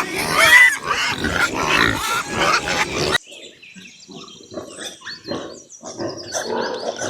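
Domestic pigs grunting and squealing loudly. About three seconds in, it cuts to quieter, repeated pig grunts with faint high chirps behind them.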